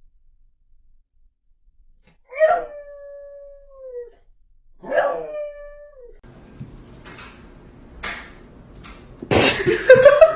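Two drawn-out calls from a pet animal about two and a half seconds apart, each starting sharply and then holding a tone that slides down. Near the end comes a louder call that rises in pitch.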